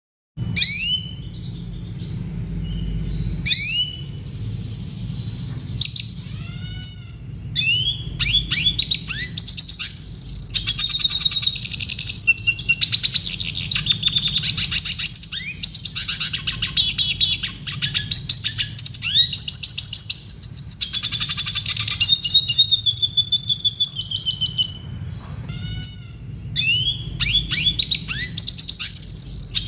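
Red siskin singing: after a moment of silence, a long run of rapid twittering, sweeping chirps and trills, over a low steady hum.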